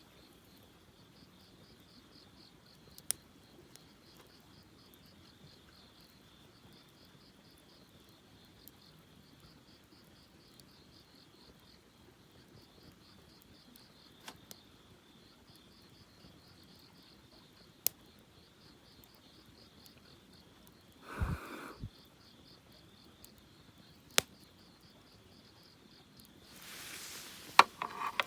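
Crickets chirping in a steady, finely pulsing trill, with a few isolated sharp pops from a wood campfire. A brief louder rustle about three quarters of the way through, and more rustling near the end.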